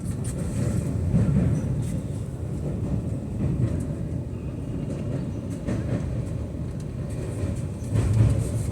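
A train running along the track: a steady low rumble with a few faint clicks.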